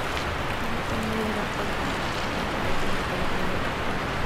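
Steady rain falling on garden foliage, an even hiss.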